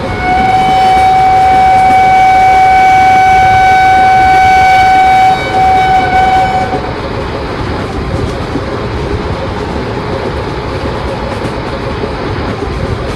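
A train horn sounds a long, loud, steady blast of about five seconds, breaks off briefly, then sounds a second short blast. Under it and after it runs the continuous rumbling noise of a passing train.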